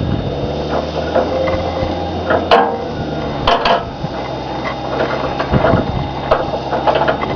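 Vehicle engine idling steadily, its pitch shifting slightly about two and a half and three and a half seconds in, with scattered clicks and knocks over it.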